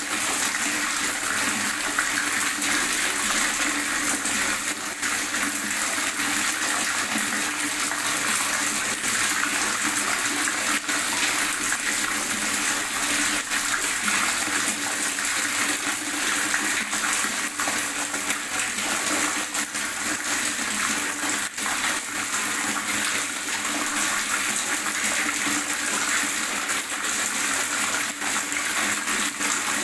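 Water gurgling and splashing steadily, a continuous bubbling rush that stays even throughout.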